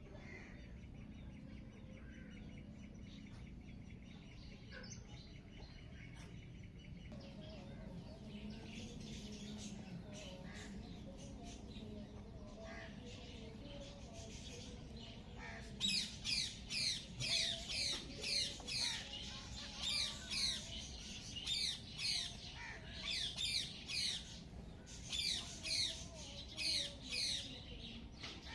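Birds calling over a steady low background. About halfway through, one bird starts a loud, fast run of short repeated calls in quick bursts.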